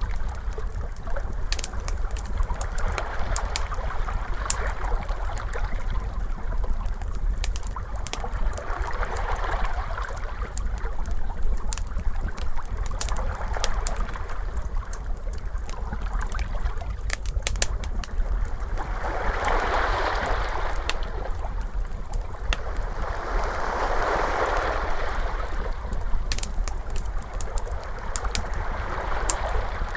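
Wood fire crackling with scattered sharp pops, over ocean waves washing in and receding every few seconds, the biggest swells about two thirds of the way through.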